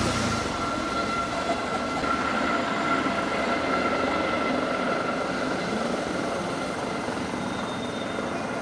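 Helicopter running with a steady drone of engine and rotors, with a faint constant whine.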